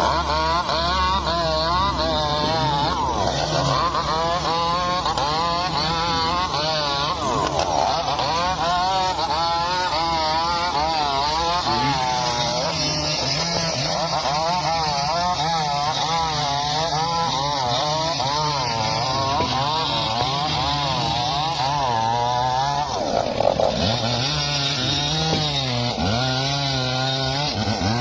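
Chainsaw running under load while cutting wood, its engine pitch wavering up and down continuously as the chain bites. About twenty-three seconds in the pitch dips and climbs again, then runs steadier.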